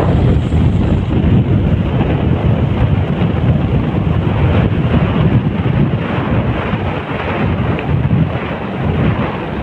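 Wind buffeting the microphone of a moving motorcycle, a loud steady rumbling rush with the bike's running noise underneath.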